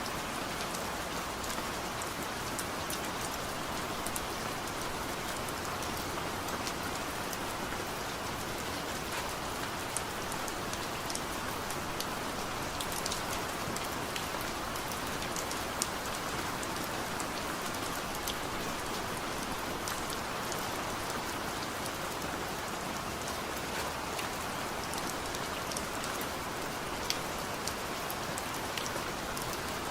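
Heavy rain falling steadily, a dense even hiss with scattered sharp drips and patters.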